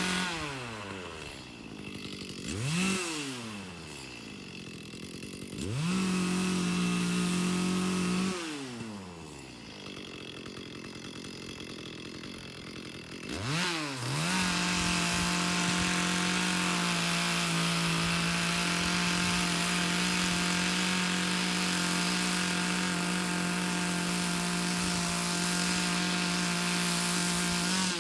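Chainsaw engine blipped up and dropping back to idle a few times, with a couple of seconds at full throttle, then held at high revs for the whole second half while it cuts into a green log.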